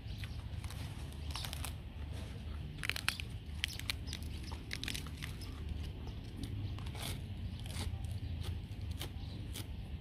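Close-up chewing and crunching of a mouthful of raw beef salad with a fresh green leaf, with many sharp wet mouth clicks, loudest around three seconds in. A steady low rumble runs underneath.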